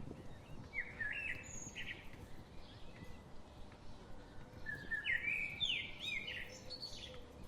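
A small songbird singing two short phrases of quick, up-and-down warbling notes: a brief one about a second in and a longer one after about five seconds.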